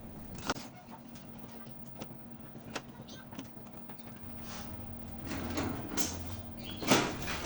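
Scattered sharp clicks and knocks of small hard objects being handled, over a faint steady hum. The activity gets busier near the end, with one loud knock.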